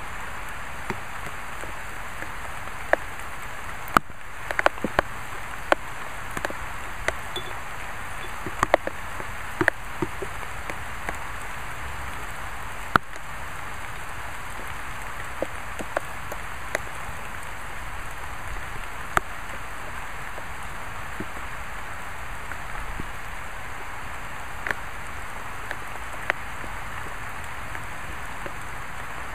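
Scattered raindrops tapping sharply and irregularly on a hard surface close by, more often in the first half, over a steady hiss of light rain.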